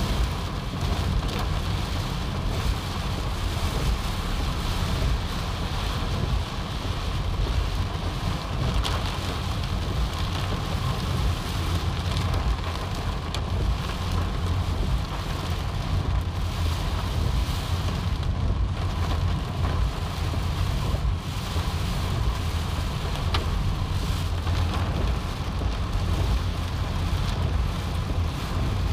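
Heavy rain and strong wind, with gusts rumbling on the microphone: a steady, dense noise.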